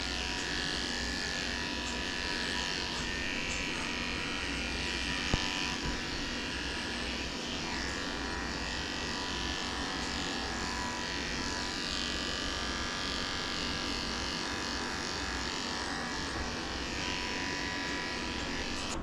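Electric dog-grooming clippers running steadily, the blade being worked through a thick-coated dog's hair, with one sharp click about five seconds in. The clippers stop at the very end.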